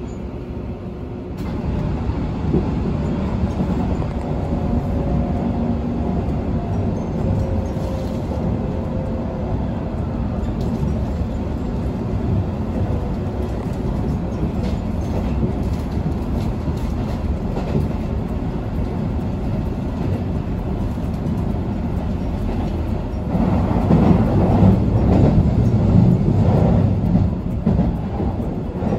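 Hanshin Railway limited express electric train running, heard from inside the carriage: a steady low rumble of wheels on rail. It grows louder and rougher for a few seconds near the end.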